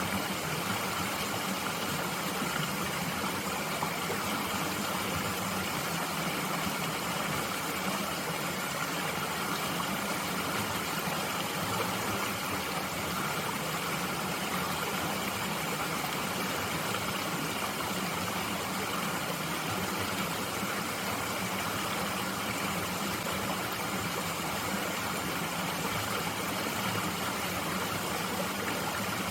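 Mountain stream flowing steadily, a constant rushing of water with no breaks.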